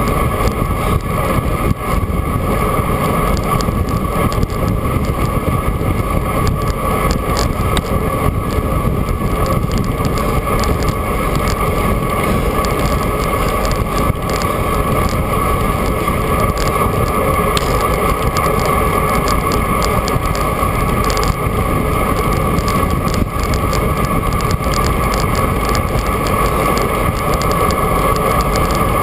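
Steady rush of wind buffeting the microphone of a camera on a moving bicycle, with the rumble of tyres on the road underneath. It is loud and unbroken, with no change in pace.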